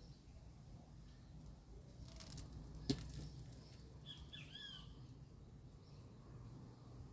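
Faint outdoor background with a few ticks and one sharp click about three seconds in, followed a second later by a short bird chirp of a few quick rising-and-falling notes.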